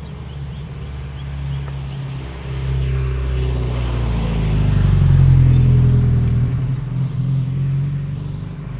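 A motor vehicle's engine passing close by: a low engine note that grows louder to a peak about five seconds in, then fades.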